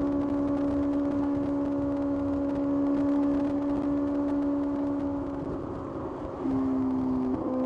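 Kawasaki ZX-6R's inline-four engine running at steady revs under way. Near the end the note drops, then changes pitch with a brief break.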